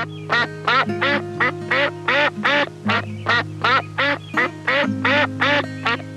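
A bird calling in a fast, even series of short, harsh calls, about two and a half a second, over background music with held chords.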